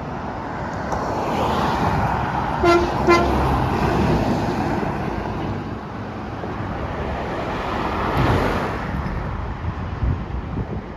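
Two short horn toots in quick succession from a passing truck, over the road noise of vehicles going by; another vehicle passes near the end.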